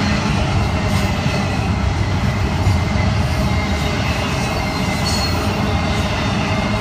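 Double-stack intermodal well cars of a freight train rolling past close by, a steady loud rumble of steel wheels on rail. Faint high, steady squeal tones from the wheels run over it.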